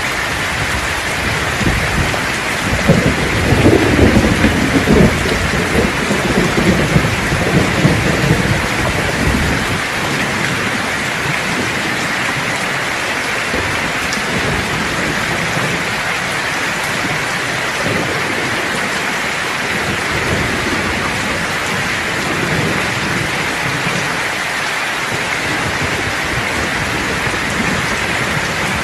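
Steady heavy rain hissing on surfaces, with a roll of thunder rumbling in about two seconds in and dying away by about nine seconds.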